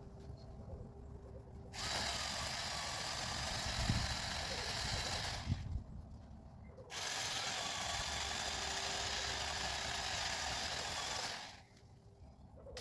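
Small cordless electric chain pole saw running in two bursts of about four seconds each, with a short pause between them.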